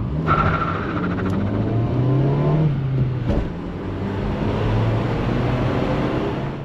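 Peugeot 306's 1.6-litre 8-valve petrol engine pulling under acceleration, its pitch rising, then dropping at an upshift about three seconds in and climbing again.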